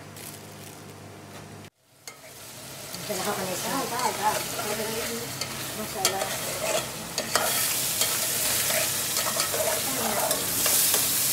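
Chicken pieces sizzling as they fry and brown in a metal pot, with clicks and scrapes of a utensil stirring against the pot. The frying starts after a brief cut to silence about two seconds in, and the sizzle grows louder about two-thirds of the way through.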